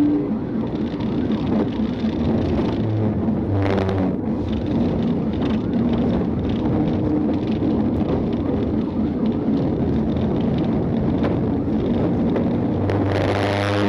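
Police Dodge Charger's engine running at speed under road and wind noise, heard from inside the patrol car during a pursuit; the engine revs up near the end.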